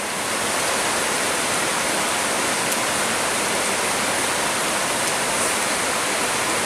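Heavy storm rain pouring steadily onto trees, a dense even hiss that swells slightly just at the start.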